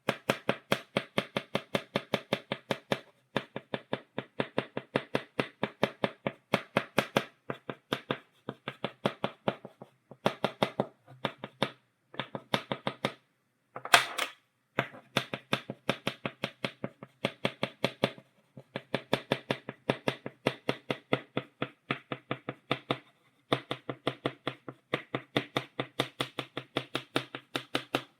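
Chalk tapping against a blackboard, stippling dots: quick sharp taps, several a second, in runs broken by short pauses, with one harder tap about halfway through.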